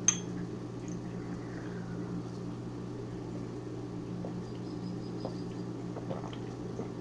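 Steady low electrical hum of a running appliance, with a sharp click at the start and a few faint soft sounds of two people gulping down shots of soda.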